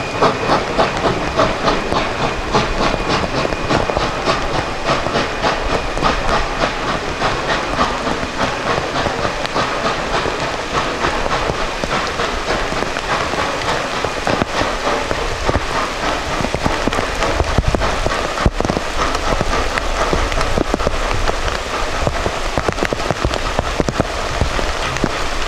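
Narrow-gauge steam train running, with a quick regular beat of exhaust and hissing steam; the beat is clearest in the first half.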